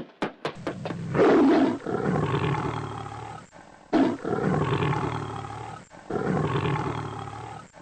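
Three long, deep animal roars one after another, a sound effect for the cartoon wolf. A few short clicks come just before the first roar.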